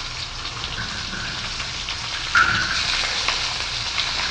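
Oil sizzling in a hot wok as cut vegetables go in, with a short loud clank about two and a half seconds in; the sizzle grows stronger after it.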